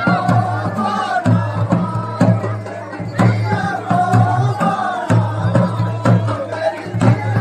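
Folk drumming at a steady beat, with a group of voices singing together over it.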